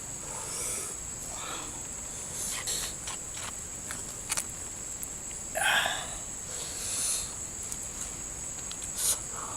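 A person eating: scattered chewing and mouth noises with a few small sharp clicks, one fuller mouth sound about halfway through.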